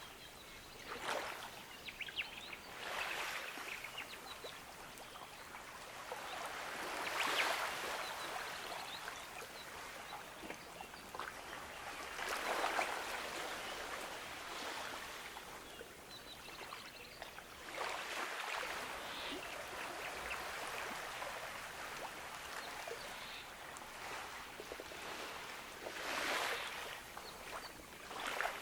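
Gentle ocean waves washing onto a beach, the surf swelling and fading every few seconds.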